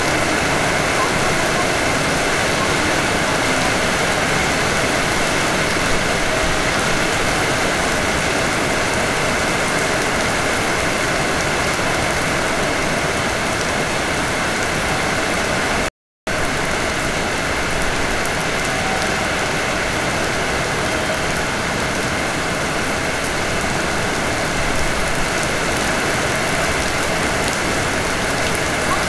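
Steady hiss with a faint hum inside a Hanshin 5500 series train, with no clicks or rhythm; the sound cuts out for a moment about halfway through.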